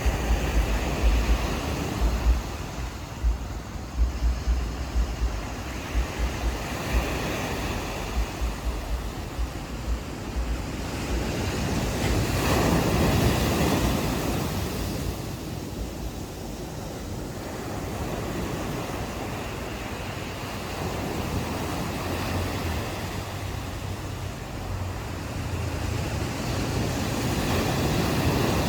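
Ocean waves washing up on a beach, the surf swelling about twelve seconds in and again near the end. Wind buffets the microphone with low rumbles through the first several seconds.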